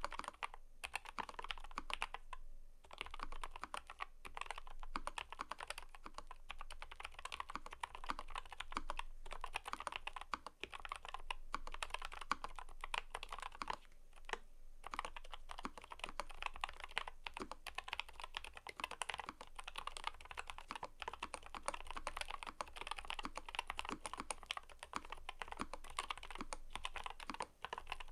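Fast, continuous typing on a mechanical keyboard: a dense run of key clicks and clacks, with a few short pauses.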